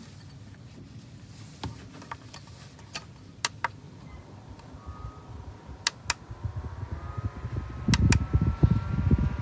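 Koonie USB desk fan speeding up: a faint motor whine rises in pitch over the last few seconds, and gusts of its air start buffeting the microphone near the end. Scattered sharp clicks come before it.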